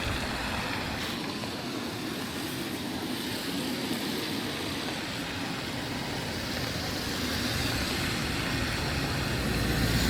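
Road traffic on a city street: a steady wash of vehicle noise that grows louder over the last few seconds as a vehicle comes nearer.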